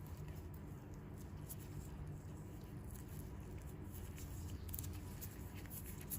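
Faint, scattered crackles and rustles of hands working on bare feet during foot-peel skin care, over a steady low hum, a little busier near the end.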